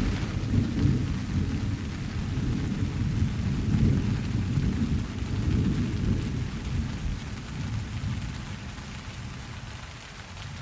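Steady rain with a long roll of thunder rumbling low beneath it, fading away over the last few seconds.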